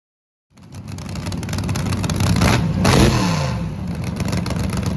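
A car engine revving hard, loudest about three seconds in, after which its pitch falls away.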